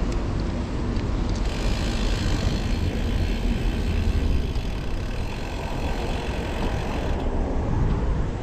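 Wind buffeting the microphone on a moving road bike, a steady low rumble with road and traffic noise. A brighter hiss comes in about a second and a half in and fades near the end.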